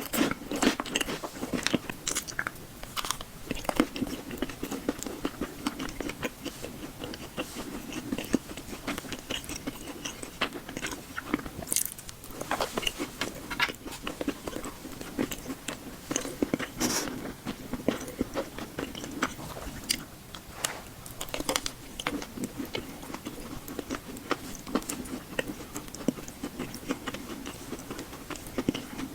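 Close-miked ASMR eating: a person biting and chewing, with many sharp crunchy and wet clicks over a steady chewing sound.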